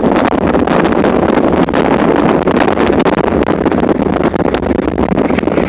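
Loud wind buffeting the microphone in the open bed of a moving pickup truck, with road and vehicle noise underneath.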